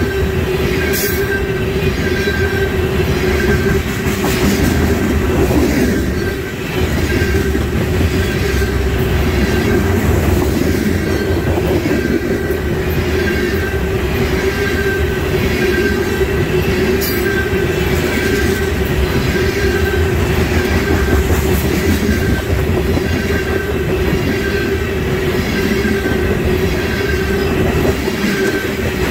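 Freight train of tank cars rolling past close by: steady rumble of steel wheels on rail with a continuous tone, and a short high squeal repeating about once a second.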